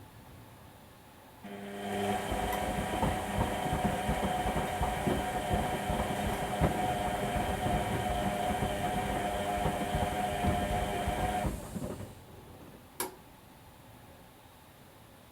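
Whirlpool washing machine's motor turning the drum for about ten seconds during the wash, a steady hum with irregular clattering from the tumbling load, then stopping. This is the usual turn-and-pause drum action of a wash cycle. A single click follows shortly after the drum stops.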